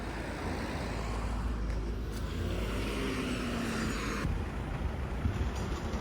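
Bus engine running with a steady low rumble, with a brief falling whine about three seconds in.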